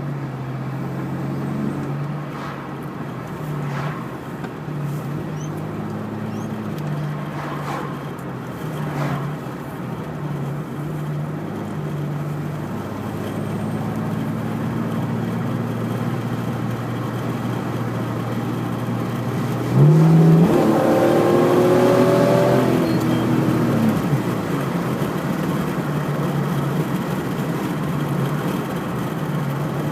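Supercharged Holden VR Commodore 3.8-litre V6, on 6 psi of boost, idling with a few light throttle blips, then revved hard once about twenty seconds in, its pitch climbing and falling back to idle over about four seconds.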